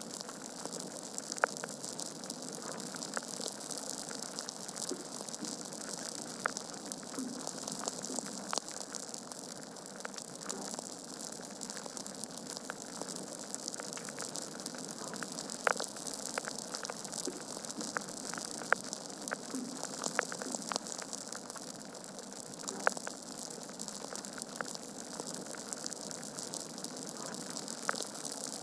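Wood fire burning in a fireplace: a steady hiss of flames with frequent sharp crackles and pops from the logs, a few of them louder, at irregular intervals.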